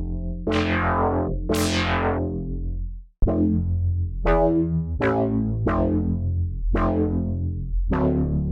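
BLEASS Omega software synthesizer playing repeated chord stabs over a steady bass, each stab bright at the attack and quickly dulling. The sound cuts out for an instant about three seconds in, then the stabs come back a little quicker.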